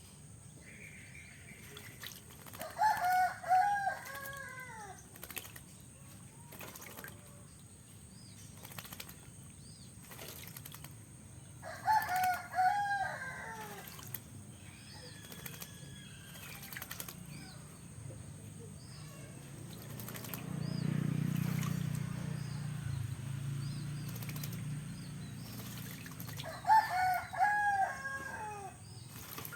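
Oriental magpie-robin bathing: short bouts of wing fluttering and splashing in water. A rooster crows three times, about nine seconds apart, louder than the splashing.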